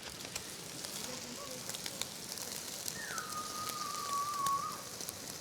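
Cooking fire crackling with many sharp pops over a steady hiss. About three seconds in, a held whistling tone drops slightly in pitch and lasts under two seconds.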